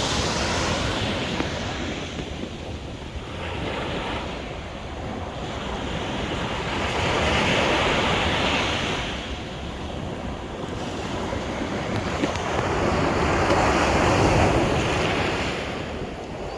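Sea waves surging and washing, swelling louder three times, with wind buffeting the microphone.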